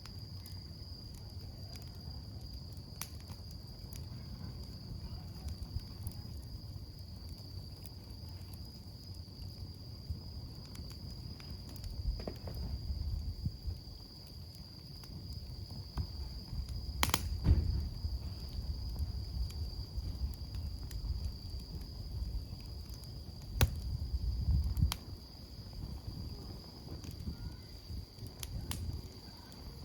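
Wood campfire crackling, with scattered sharp pops; the loudest pop comes a little past halfway. A cricket's steady high trill runs under it.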